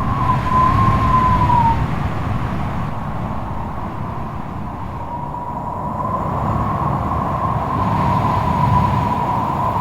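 Strong wind gusting: a low rush of noise that swells and eases, with a high whistling howl that wavers in pitch. The howl fades out about two seconds in, then returns midway and grows stronger near the end.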